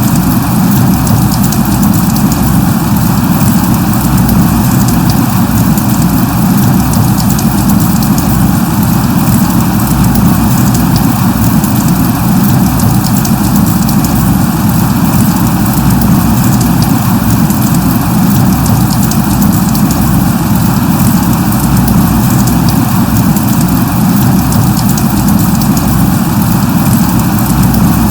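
Steady drizzle: an even, unbroken hiss of rain with fine drop ticks running through it.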